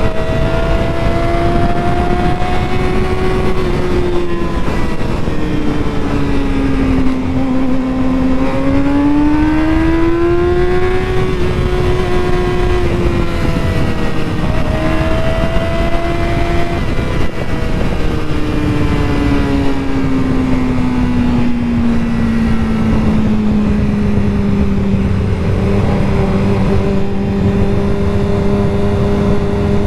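Motorcycle engine running under way, its pitch rising and falling with the throttle, over steady wind rush on the microphone. It eases off around 7 seconds in, climbs again to about 11 seconds and dips briefly near 14 seconds. From about 18 seconds it winds down gradually and levels off at a low, steady pitch near the end.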